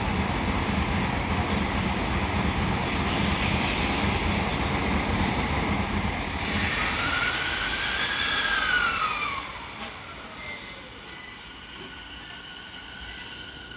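Electric train passing at speed with steady wheel and rail rumble. Near the end a high whining tone slides down in pitch as it goes by, then the noise drops away.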